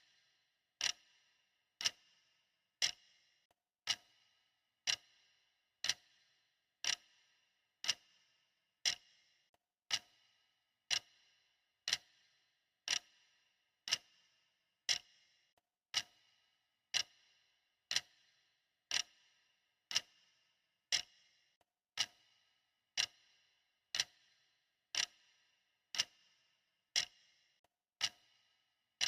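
Clock ticking steadily, one short, crisp tick a second with a brief ring after each.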